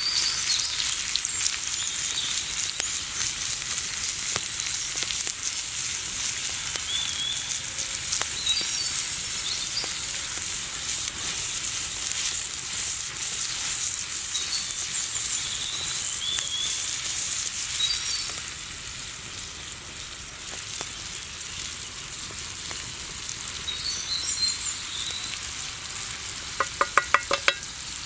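Food sizzling in hot oil in a pan: a steady crackle that eases somewhat about two-thirds of the way through. Near the end comes a quick run of sharp clicks.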